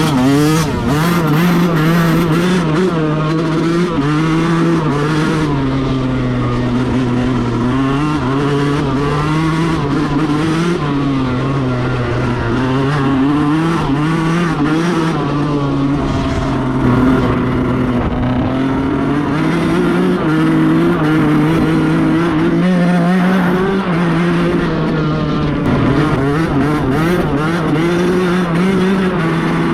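Yamaha YZ125 single-cylinder two-stroke dirt-bike engine running under way, its revs rising and falling repeatedly with the throttle.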